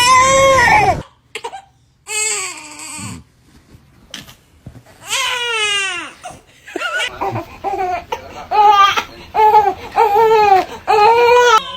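Baby crying: drawn-out wails broken by short pauses, then a run of short, rhythmic cries in the second half.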